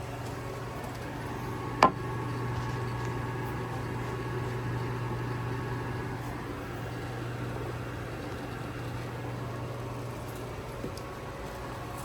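1978 American Standard Glenco toilet tank refilling: the fill valve runs with a steady hum, and there is one sharp click about two seconds in.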